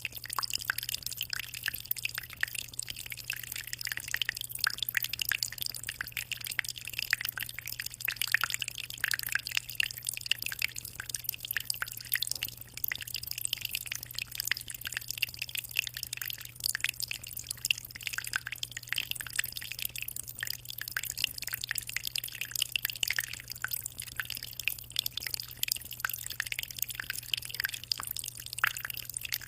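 Water trickling and splashing steadily into a 60-litre aquarium, a dense run of small drips and splashes over a steady low hum.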